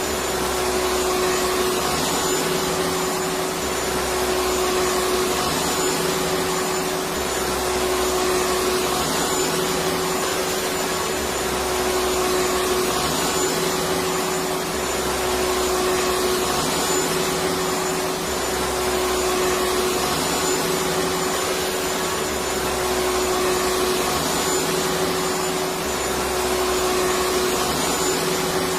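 Electric vacuum cleaner motor running steadily, a constant hum with a slight rise and fall in the low rumble every few seconds.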